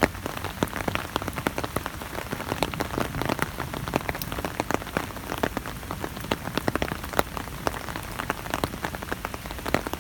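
Rain falling on an umbrella overhead, heard from underneath: a steady hiss of rain with many sharp, irregular taps of single drops striking the canopy.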